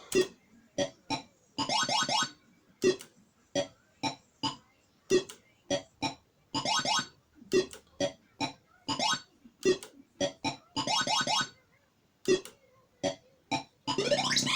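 Cashcade 2p amusement machine's electronic game sounds: a rapid run of short synthesized bleeps and chirps, several rising in pitch, with a few longer jingle phrases.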